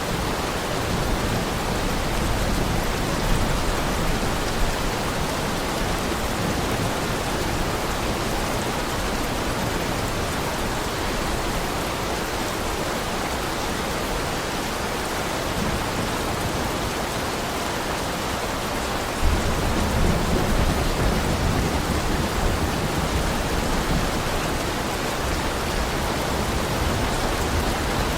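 Heavy rain falling in a steady, even hiss. A low rumble underlies it at the start, then comes in more strongly and suddenly about two-thirds of the way through.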